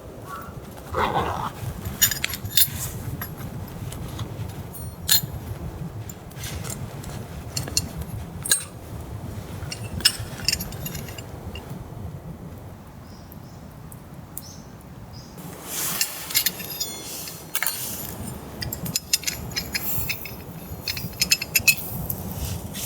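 Light metal and glass clinks and clicks at irregular intervals, as camp cookware and tools are handled, over a steady low background rumble.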